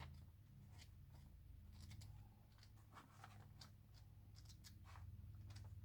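Near silence: a faint low room hum with a few scattered faint clicks.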